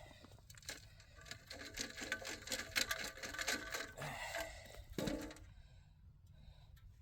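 Soil being scraped and crunched by hand around a bedded trap, a busy run of rapid scratching and crumbling that stops about five and a half seconds in.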